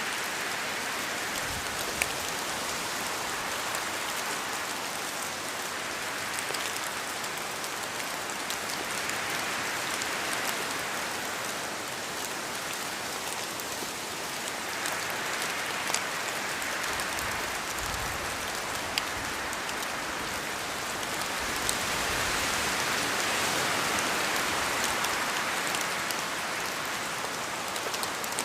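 Steady rain falling, an even hiss that swells and eases slowly, with scattered sharp drop ticks and a few soft low thuds.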